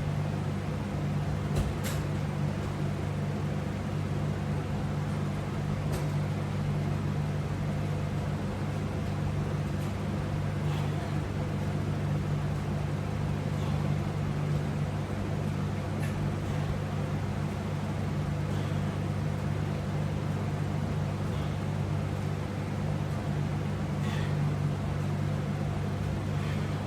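Steady low hum of room background noise, unchanging throughout, with a few faint clicks.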